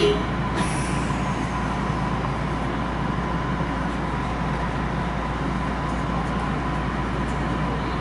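Kintetsu electric train running, heard from inside the passenger car: a steady rumble with a faint, steady high tone above it.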